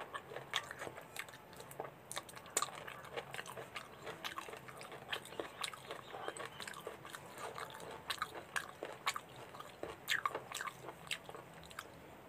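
Chewing and wet mouth sounds of a person eating mutton in onion gravy with his fingers: a steady run of irregular short smacking clicks.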